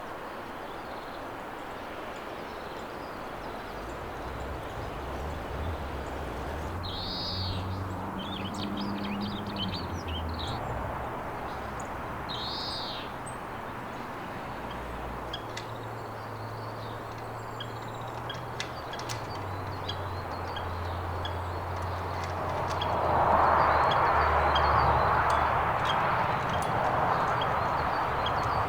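Wild songbirds calling: two short, high arched calls about five seconds apart, then scattered faint high ticks. They sit over a steady rushing background that grows louder near the end.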